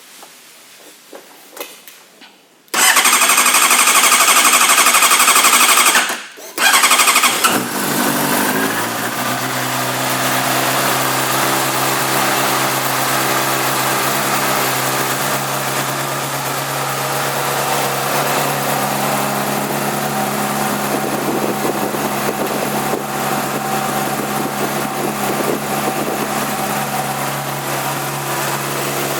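2008 Honda CBR600RR's inline-four engine: the electric starter cranks for about three seconds without the engine catching, stops briefly, then cranks again. The engine fires about seven and a half seconds in and settles into a steady idle.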